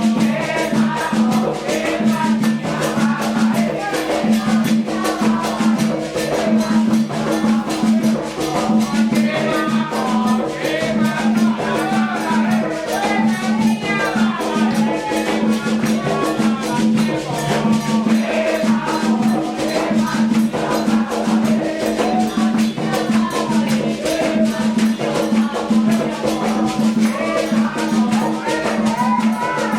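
Candomblé ritual music: drums and a rattle keep a fast, steady percussion rhythm while a group of voices sings over it.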